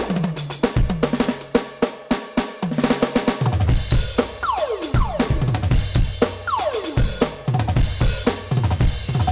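NUX DM-8 electronic drum kit played: rapid kick, snare and cymbal hits in a busy groove, with quick runs of pitched hits that fall in pitch about half a second in and again past the middle.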